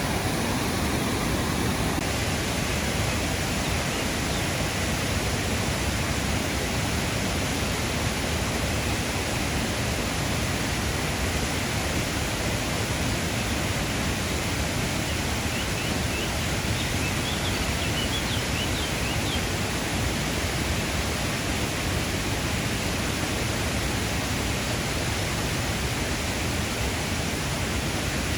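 Steady rush of a waterfall, the continuous roar of falling water with no change in level.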